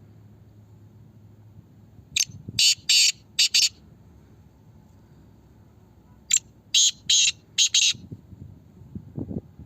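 Black francolin calling twice. Each call is a harsh, grating phrase of about five clipped notes, and the second comes about four seconds after the first.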